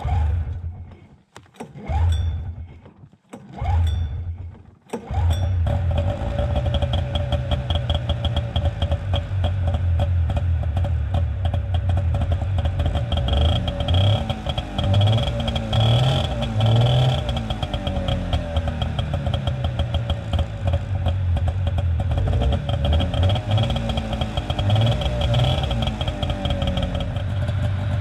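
1990 Polaris Indy Sport 340 snowmobile's two-stroke engine on a cold start: it fires briefly and dies three times, catches about five seconds in, then runs steadily with a few short revs of the throttle.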